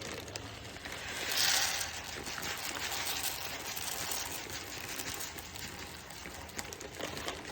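Dry uncooked rice grains pouring into a measuring cup, a steady grainy trickle with a louder rush about one and a half seconds in.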